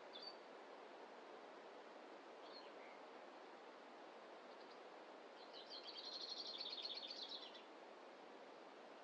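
Faint forest ambience: a soft steady rush, with a bird giving a couple of short high chirps and then a rapid high trill of about two seconds past the middle.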